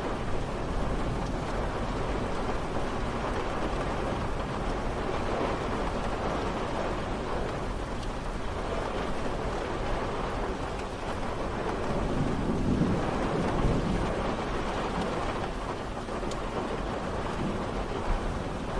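Steady rain falling, an even hiss of many drops. About two-thirds of the way through, a low rumble swells and fades under it.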